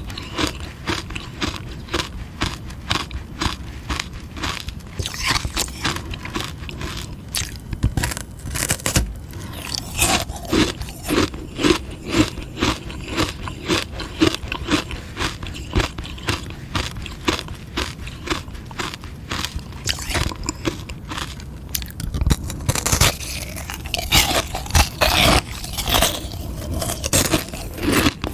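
Close-miked biting and chewing of a frozen sugar-water ice lolly: a rapid, irregular run of crisp crunches and crackles as the ice breaks between the teeth.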